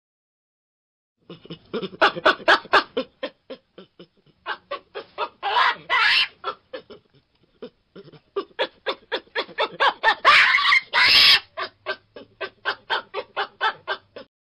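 Yellow baboons calling: a rapid run of short calls, about five a second, starting about a second in. It is broken twice by louder, harsher outbursts.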